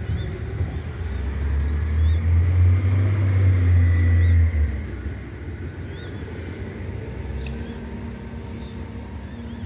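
A low rumble swells over the first few seconds and drops away about five seconds in, with short, faint, high-pitched bird chirps scattered throughout.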